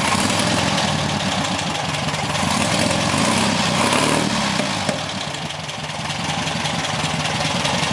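Volkswagen Beetle 1300 dual-port air-cooled flat-four engine idling after a successful start, swelling a little about three to four seconds in and easing back.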